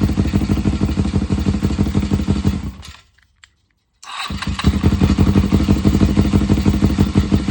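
Suzuki GSX250E's air-cooled parallel-twin engine idling with an even pulsing beat. It dies away about three seconds in, goes silent for about a second, then starts again and settles back to idle.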